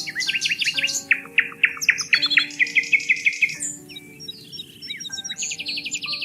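Songbirds chirping and trilling in quick runs of short, down-sweeping notes, over soft background music of long held notes.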